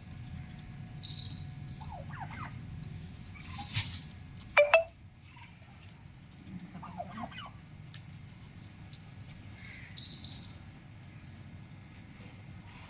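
Male domestic turkey gobbling in short bouts, with the loudest, sharpest call about halfway through and brief hissy bursts near the start and near the end.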